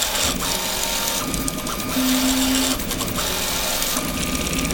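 CoreXY 3D printer printing at high speed, its stepper motors whining in steady tones that jump to a new pitch every half second to a second as the print head darts about, over a steady hiss.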